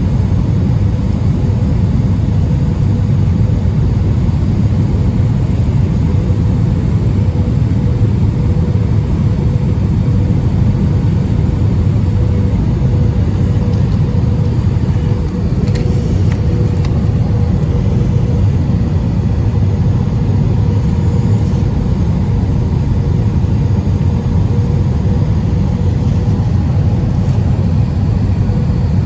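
Airbus A320 cabin noise in flight: a steady low rumble of the jet engines and rushing airflow, with a constant hum running through it.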